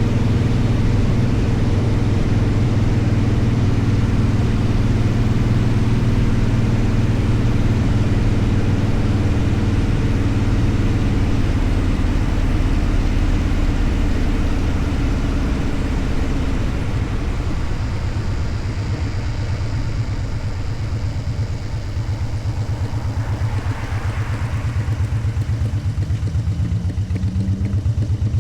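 Motorcycle engine running steadily under way. Past the middle it eases off and gets quieter, then near the end its pitch rises as it picks up speed again.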